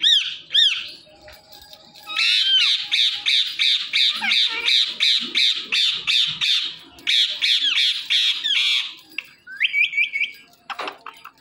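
Indian ringneck parakeet squawking: two short arched calls, then a fast run of harsh repeated screeches at about five a second lasting some seven seconds, ending with a few short rising chirps.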